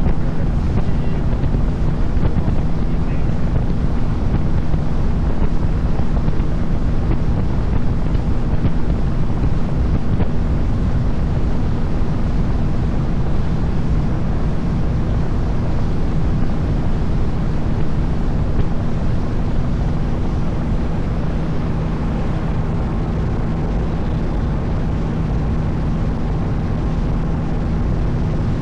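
Boat engine running steadily under way, a constant low hum, with wind rushing over the microphone.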